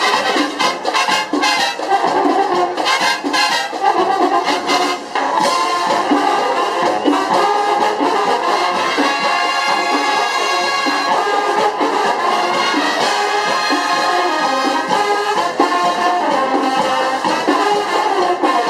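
Marching band playing: brass with sharp percussion hits in the first few seconds, then long held brass notes.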